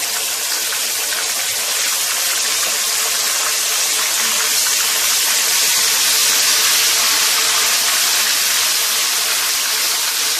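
Ginger-garlic paste frying in hot oil in a wok, a loud, steady sizzle as it is stirred.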